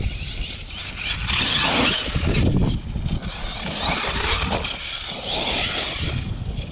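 Arrma Kraton brushless RC monster truck being driven, its motor and drivetrain whining and swelling as the throttle goes on and off.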